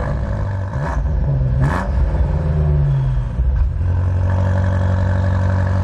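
BMW M5 (F90) 4.4-litre twin-turbo V8 started with the push button: it fires about a second in, the revs flare up, and from about two thirds of the way through it settles to a steady idle.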